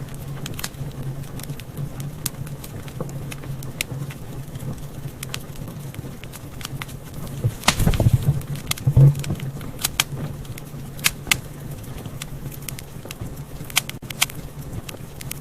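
Wood fire crackling in a fireplace: scattered sharp pops and snaps over a steady low hum, with a louder cluster of pops and thumps about eight to nine seconds in.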